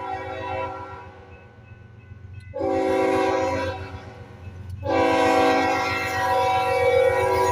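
Union Pacific SD70M locomotive's air horn sounding a chord in long blasts over the steady low rumble of the train. One blast fades out in the first second, another sounds about two and a half seconds in, and a third starts about five seconds in and is held.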